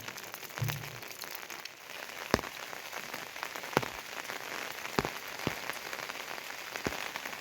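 Steady heavy rain, with a few large drops landing in sharp taps.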